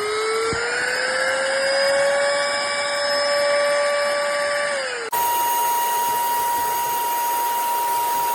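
SERVOMASTER cordless handheld vacuum cleaner's motor running: its whine rises in pitch as it spins up and then holds steady. About five seconds in the sound cuts abruptly to a steadier, higher-pitched whine.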